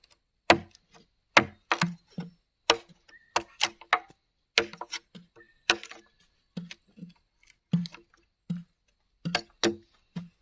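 Repeated sharp knocks of a tool striking bamboo, irregular, about one or two a second, some in quick pairs, each with a short low ring.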